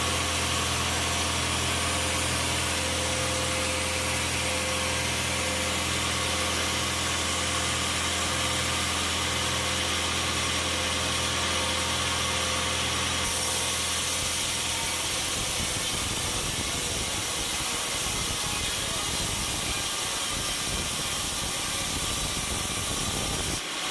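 An engine running steadily at a constant speed, with a low drone that weakens about two-thirds of the way through.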